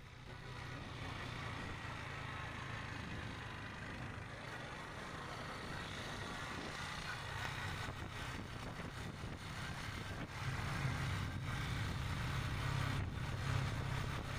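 Motorbike engine running steadily while riding, with a rush of air noise over it, getting louder about ten seconds in.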